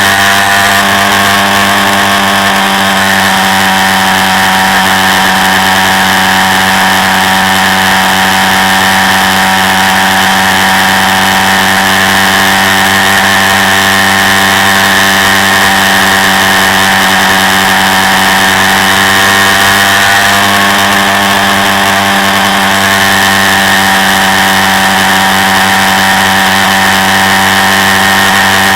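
Quad bike engine running at a steady, nearly constant speed, heard from onboard the machine, with a slight change in pitch about twenty seconds in.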